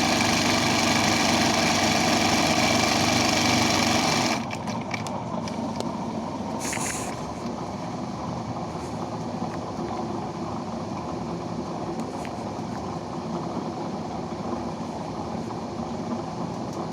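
Embroidery machine running with a steady mechanical whir that drops off sharply about four seconds in, leaving a quieter steady hum with a few faint clicks.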